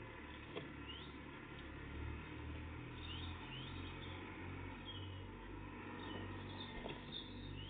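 Tits giving short, high chirping calls at scattered intervals, some rising and some falling in pitch, over a steady low background rumble, with a couple of faint knocks.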